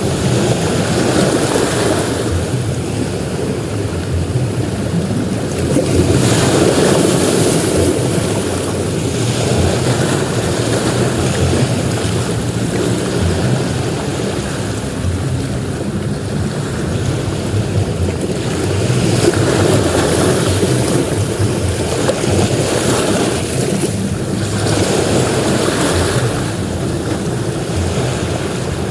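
Sea surf breaking on a beach: a continuous wash that swells and eases every several seconds, with wind rumbling on the microphone.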